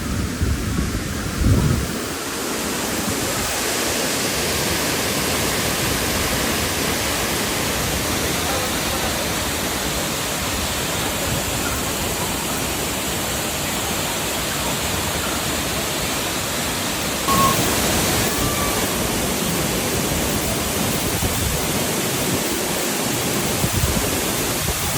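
Waterfall's steady rushing water, a loud even hiss, stepping up in level about 17 seconds in.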